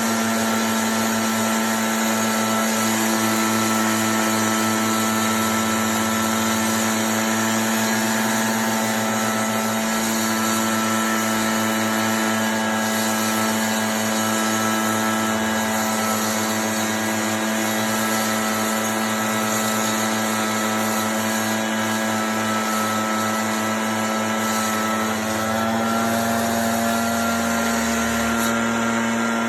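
An engine running steadily at a constant speed, its pitch shifting slightly near the end.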